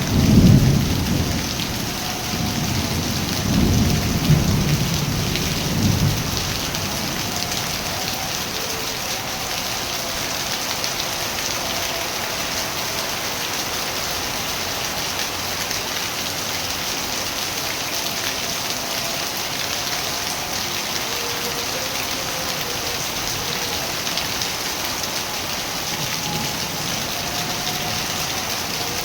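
Steady heavy rain falling, with a roll of thunder rumbling through the first six seconds or so and then dying away.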